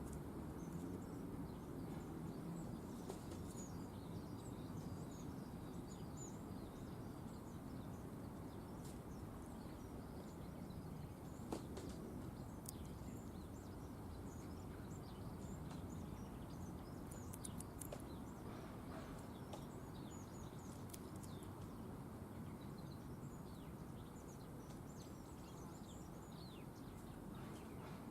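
Faint, scattered high chirps and calls of small garden birds over a steady low background rumble, with a single sharp click about twelve seconds in.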